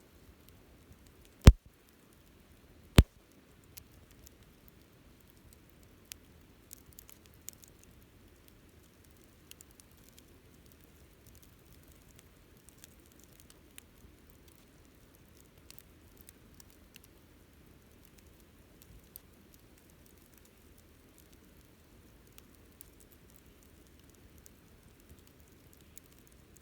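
Wood campfire crackling: two sharp, loud pops about a second and a half apart near the start, then scattered small crackles over a faint, steady low hiss of the burning fire.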